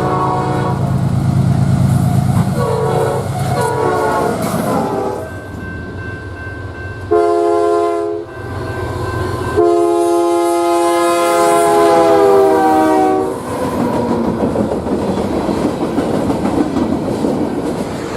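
Locomotive air horn sounding a series of chord blasts over the rumble of the engine, the last and longest dropping slightly in pitch as it passes. It is followed by the rushing noise of the train rolling by on the rails.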